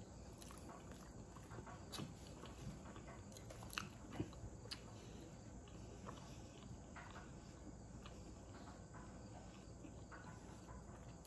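Faint close-up chewing of a mouthful of lamb korma: soft scattered mouth clicks, a few sharper ones around two and four seconds in, over a low steady hiss.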